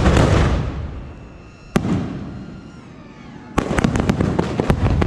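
Aerial fireworks bursting. A loud bang comes about two seconds in, then a rapid string of bangs and crackles fills the last second and a half, each dying away in a low rumble.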